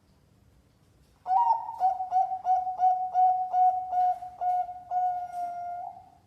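Contest-class zebra dove (perkutut) song: about a second in, a rapid series of short, mellow coos about three a second, ending in one longer drawn-out coo.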